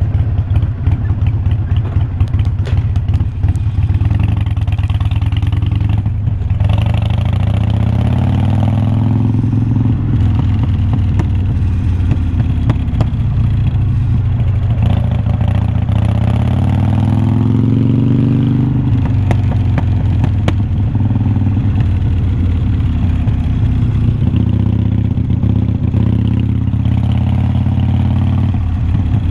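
Harley-Davidson Iron 1200's V-twin engine running through loud glass-pack-style slip-on mufflers as the motorcycle is ridden. The engine note climbs twice as it accelerates, from about six seconds and again from about fourteen seconds, then drops back sharply a little after eighteen seconds.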